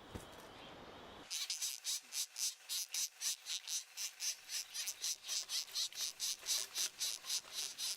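Black woodpecker nestlings begging in the nest hole: a rhythmic, high buzzing chorus pulsing about five times a second, starting about a second in.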